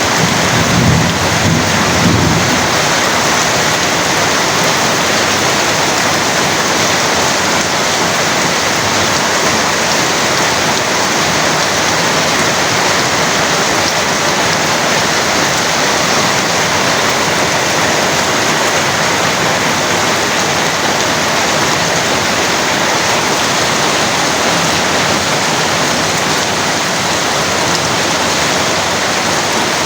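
Heavy rain falling steadily, a dense even hiss, with a low rumble in roughly the first two seconds.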